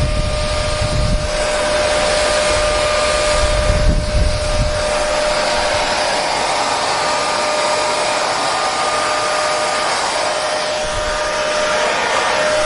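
Hair dryer running steadily: a constant rushing airflow hiss with a steady motor whine. A low rumble comes in briefly near the start and again around four seconds in.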